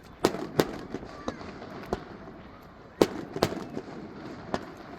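Fireworks exploding overhead: a string of sharp bangs, with two loud ones close together near the start and another loud pair about three seconds in.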